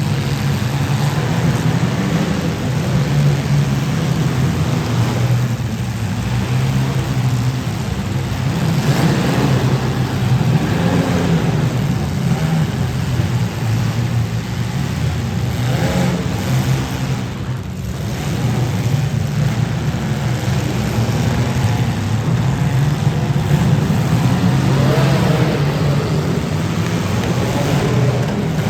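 Demolition derby car engines running loud, revving up and falling back throughout.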